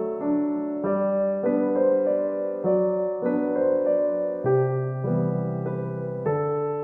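Background music: a soft piano melody over sustained chords, notes changing about every half second to a second.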